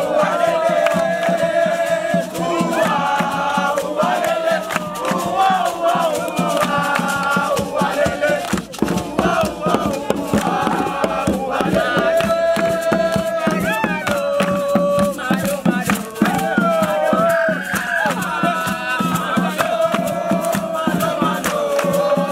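A group of voices singing and chanting together over dense, sharp percussive beats.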